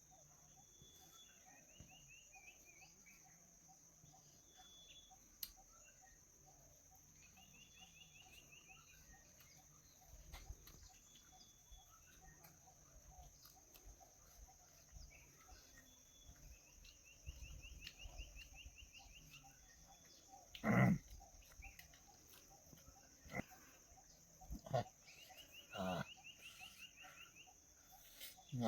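Quiet rural ambience: a steady high insect drone with a bird's short rapid trill repeated four times. A few brief louder sounds come near the end.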